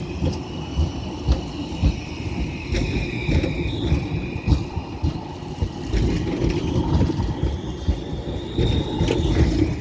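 A tram running on its rails: a steady low rumble with repeated irregular clacks of the wheels over rail joints, and a wavering high-pitched tone above it.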